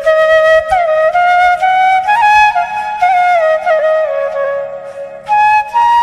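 Flute playing a slow solo melody of held notes with slides between them. The line fades out briefly and a new phrase begins about five seconds in.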